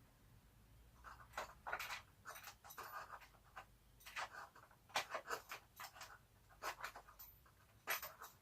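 Hands working small hardware on a GoPed scooter's fuel tank mount: an irregular string of scrapes, clicks and taps, the sharpest about five and eight seconds in.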